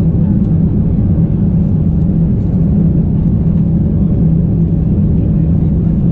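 Steady low rumble and hum of a Boeing 787-9 heard from inside the cabin while the airliner is on the ground after landing.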